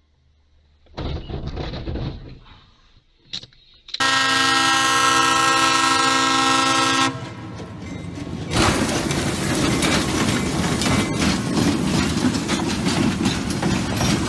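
Train horn blasting steadily for about three seconds. After a short gap comes the loud rumbling of a train running close by, with rapid knocking.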